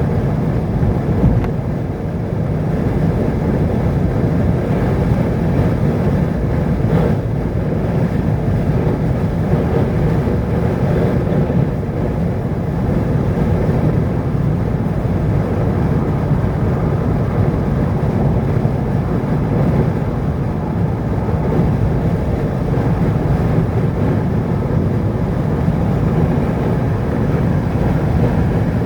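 Steady low rumble of engine and road noise from a vehicle driving along a road, unchanging throughout.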